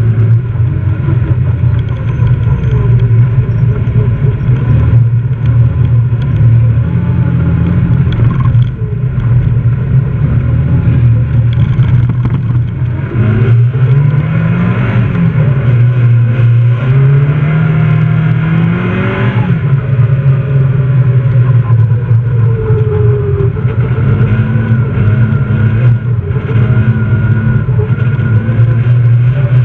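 Fiat Seicento rally car's engine, heard from inside the cabin and running hard under load at high revs. Its pitch steps up and down as the driver lifts and accelerates, with two long climbs in revs about halfway through.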